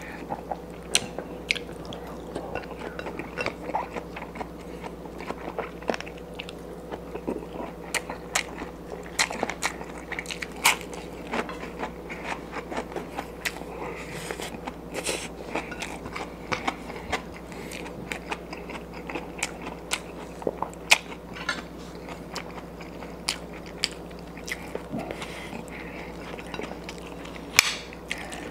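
Close-up eating sounds: chewing and crunching a meal of rice and fried butterfish, eaten by hand, with irregular sharp crunches and clicks, a few of them louder. A faint steady hum runs underneath.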